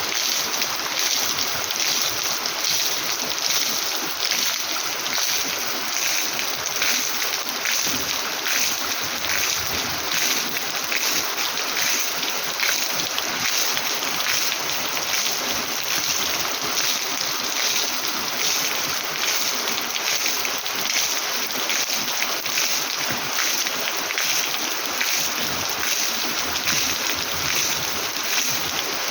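Heavy rain falling steadily, a dense even hiss made of many small drop impacts, with no thunder.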